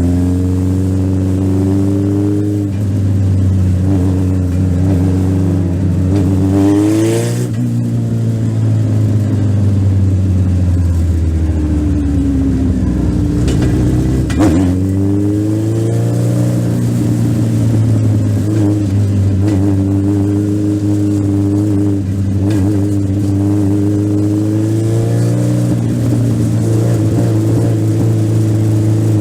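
Legend race car's engine, heard from on board, running hard on an oval: its pitch climbs under throttle, drops sharply about seven seconds in as the driver lifts, sits low for a couple of seconds, then climbs again and holds steady.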